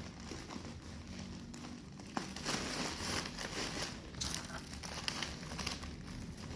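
Irregular rustling and crinkling of things being handled, with one sharp click about two seconds in.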